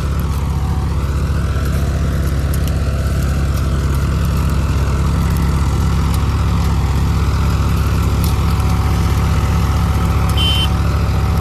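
Tractor diesel engines running steadily under load while one tractor tows the other with its loaded trolley up a slope.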